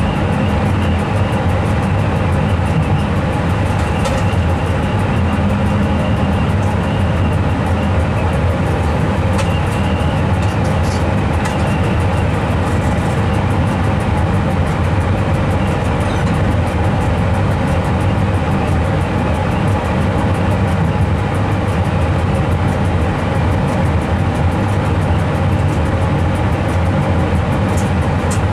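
Train running steadily, heard from inside the driver's cab: an even low rumble with a few steady hums on top and occasional faint clicks.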